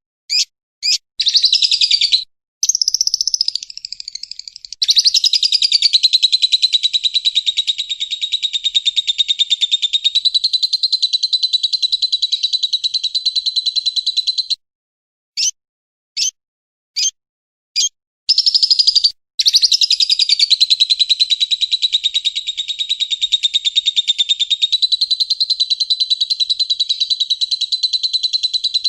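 Recorded bird song played in a loop: a few short, sharp chirps followed by a long, very fast trill held for about ten seconds. The same sequence repeats from about eighteen seconds in.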